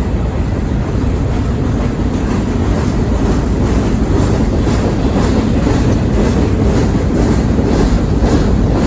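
Freight train rolling past: steady noise of cars running on the rails, with a quick run of wheel clicks over rail joints starting about halfway through.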